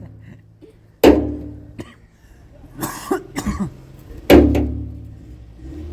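Two heavy struck thuds about three seconds apart, each with a low ringing tail that dies away over about a second, and a short rustling noise between them.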